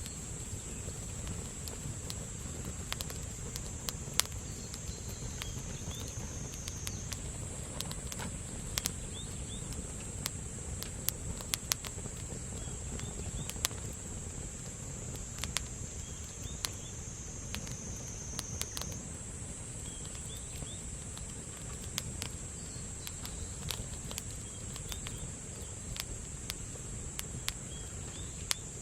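Wood campfire crackling, with sharp irregular pops, over a steady high-pitched insect trill that dips slightly in pitch twice.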